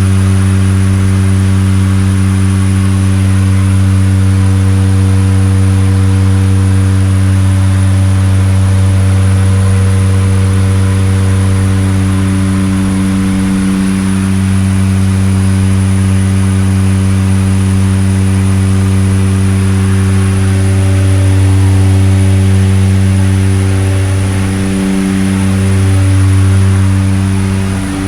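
Seaplane's propeller engines droning steadily at cruise: a loud, even low hum with a thin high whine above it, wavering briefly about halfway through and again near the end.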